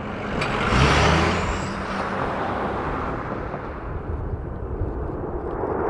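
Jet aircraft engine noise from a passing military jet: a broad rushing sound that swells about a second in and holds, with a faint high whine gliding upward.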